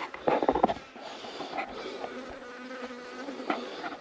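A few handling knocks and rustles about half a second in, then a fly buzzing steadily for a couple of seconds.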